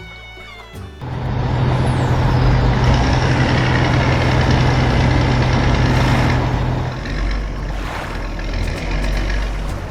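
Heavy truck engine sound effect: music cuts off about a second in and a loud engine starts suddenly with a steady low hum, which drops away about seven seconds in, leaving the engine running lower.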